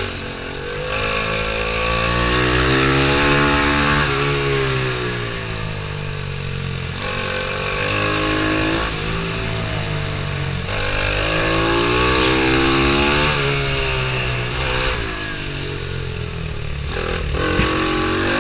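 Pit bike's single-cylinder engine under racing load, its note climbing hard for two or three seconds at a time, then dropping back before climbing again, several times over.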